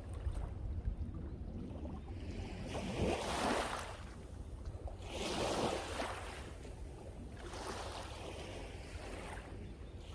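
Sea waves breaking and washing up the shore, with surges about three seconds and five and a half seconds in and smaller ones after. Wind buffets the microphone with a steady low rumble underneath.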